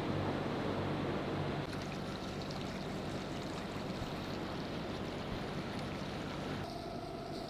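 Water rushing and splashing along a moving boat's hull, with a low steady engine hum beneath it that is strongest in the first couple of seconds. The sound changes abruptly about two seconds in and again near the end.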